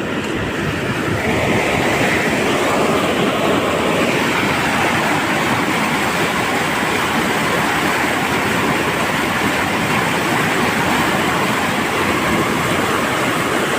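River in flood after heavy rain, fast-flowing water making a loud, steady rush.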